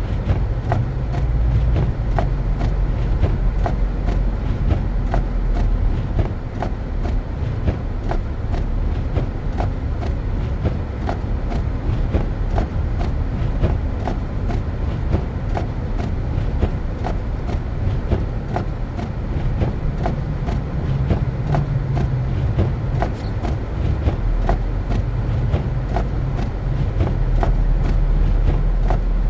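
Car driving on a snow-covered road: a steady low rumble of tyres and engine, with many light clicks and ticks scattered through it.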